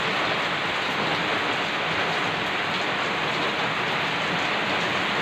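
Heavy typhoon rain falling steadily on wet pavement and plants, an even, unbroken hiss of downpour.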